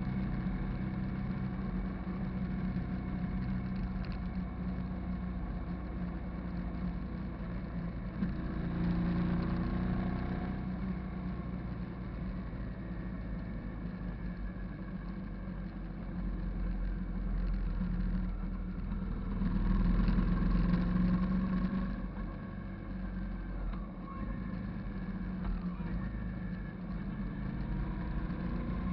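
Hyosung GV650 cruiser's V-twin engine running under way, its pitch and loudness rising and falling with the throttle. It swells louder about a third of the way in and again for a few seconds past the two-thirds mark.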